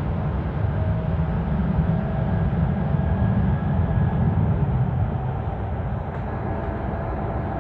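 Light rail train running between stations, heard from inside the car: a steady low rumble of wheels on track, with a faint steady whine for a few seconds about a second in.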